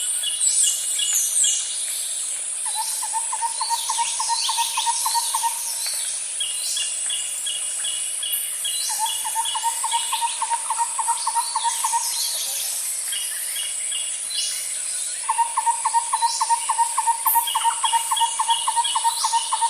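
Tropical forest ambience: a steady high-pitched insect drone under assorted bird chirps and quick sweeping calls. A lower, rapid pulsed trill comes three times, each lasting about three seconds, the last one longer.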